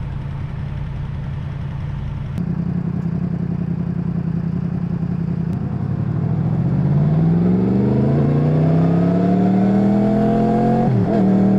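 Yamaha MT-10's crossplane inline-four engine running at low revs, then revving up as the bike accelerates about six seconds in and holding a steady higher pitch, with a brief dip near the end like a gear change.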